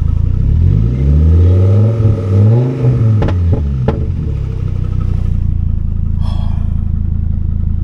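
Freshly rebuilt Chevy Colorado engine running on its first start, revved up twice and then dropping back to a steady idle. Two sharp clicks come in near the middle.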